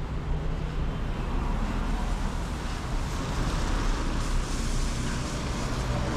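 Street traffic noise with tyres hissing on wet asphalt, swelling about four seconds in as a car passes.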